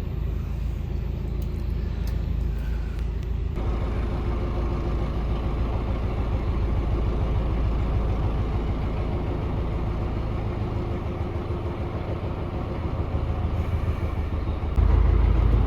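Narrowboat's diesel engine running steadily, a low continuous rumble. The sound changes abruptly about three and a half seconds in, and the low rumble gets suddenly louder near the end.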